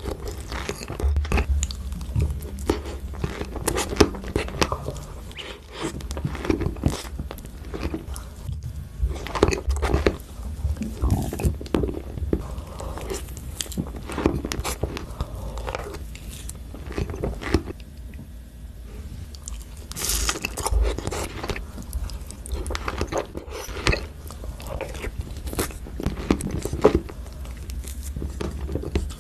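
Close-up eating: a person biting and chewing something crunchy, with irregular bursts of crackling bites and chews throughout, over a steady low hum.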